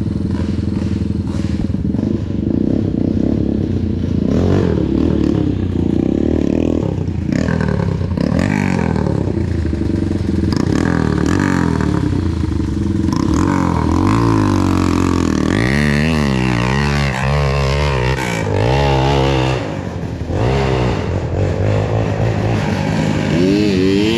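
Dirt bike engine running hard as it is ridden, its pitch rising and falling with the throttle and gear changes, swinging up and down quickly in the second half, with a brief drop in level about twenty seconds in.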